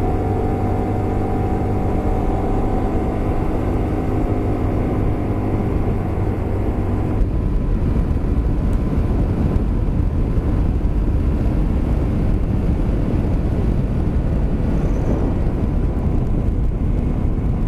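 Honda Varadero 125's small V-twin engine running at a steady pitch as the motorcycle moves off. After about seven seconds a steady rush of wind and road noise on the rider's microphone takes over and drowns out the engine.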